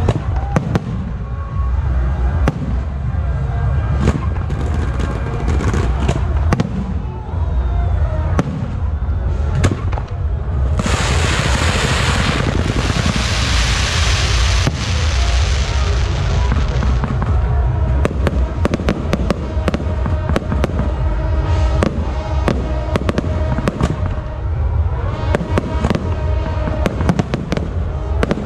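Fireworks display: repeated sharp bangs and crackling reports from aerial shells over a steady low rumble. About 11 seconds in, a loud hissing rush from spark fountains sets in and lasts about five seconds.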